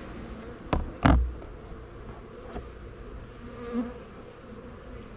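Swarm of honey bees buzzing steadily, with two sharp knocks about a second in.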